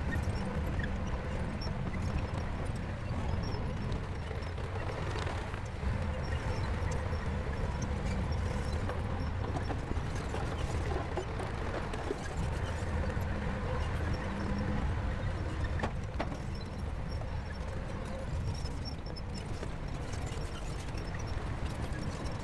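Heavy bulldozer diesel engine running steadily under work, a continuous low rumble with scattered light clanks from the machine.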